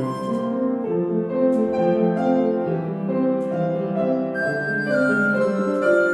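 Piano music: a slow lullaby played with held, overlapping notes under a simple melody.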